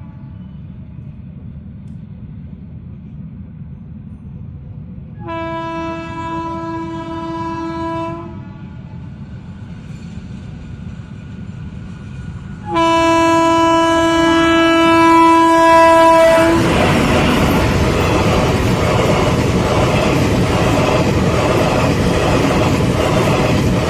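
Express train sounding its horn twice, each a steady single-pitched blast of several seconds, the second longer. About two thirds of the way in, the train passes close by with a loud rush and wheel clatter that lasts to the end.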